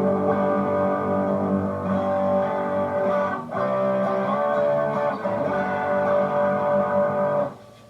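Electric guitar (a Strat copy) played through a Boss DS-1 distortion pedal with the distortion turned near the top, ringing out sustained distorted chords that change a few times and stop near the end.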